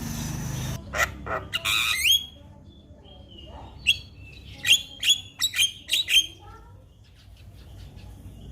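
Javan myna calling: a harsh rasp, then sharp squawking notes and a whistled glide, with a loud cluster of quick sharp calls about four to six seconds in before it goes quieter.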